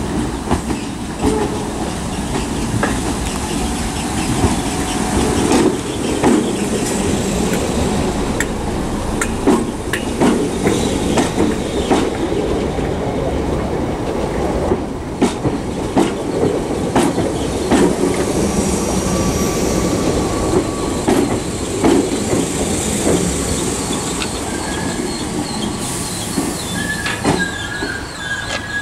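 A Class 313 electric multiple unit rolls slowly into the platform with a steady rumble, its wheels clicking over rail joints many times. A thin, high squeal from the wheels comes in over the last third.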